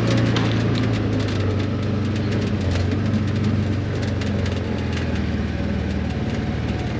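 Tractor engine running steadily, its pitch shifting slightly down about a second in, with light rattling clicks over it.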